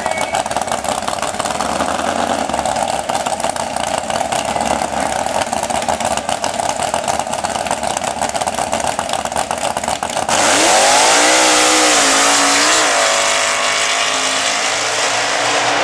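Modified 4x4 truck engine running with a fast, lumpy firing rhythm. About ten seconds in, the sound cuts to a louder engine that revs up, drops back with a couple of blips, then holds a steady pitch.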